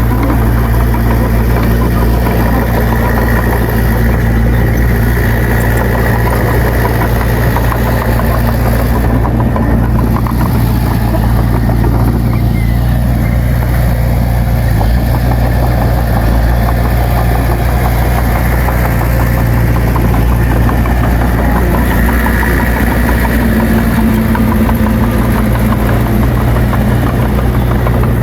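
Heavy earthmoving machine's diesel engine running steadily at a constant speed, loud and even throughout, with a strong low hum.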